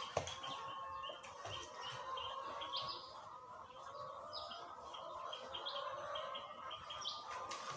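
Small birds chirping: many short, repeated high notes over a faint steady hum, with one sharp click just after the start.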